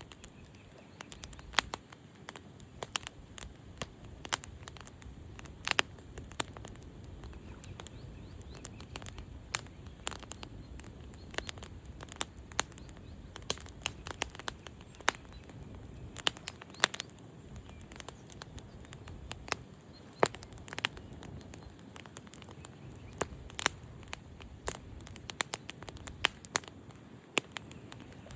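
Campfire crackling: irregular sharp pops and snaps, several close together at times, over a soft steady low rumble of the burning fire.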